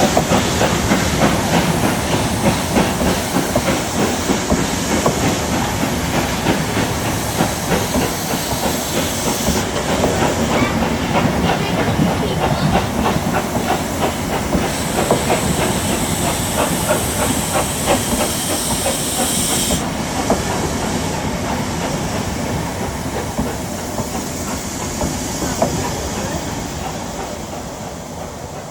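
Steam locomotive working, with a loud hiss of escaping steam over a rapid clatter. The hiss changes about a third of the way in, stops about two-thirds in, and the whole sound gradually fades near the end.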